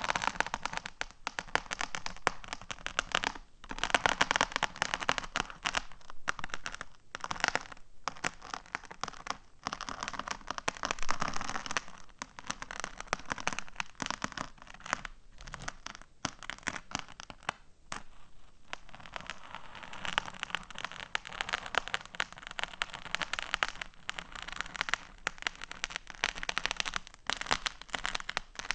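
Fingernails tapping and rummaging through a pile of small loose cubic gems, making rapid, dense clicking and crackling with a few brief pauses.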